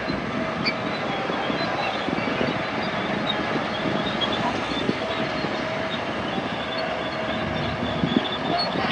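Heavy diesel earthmoving machinery running steadily, with a continuous rattling clatter over the engine.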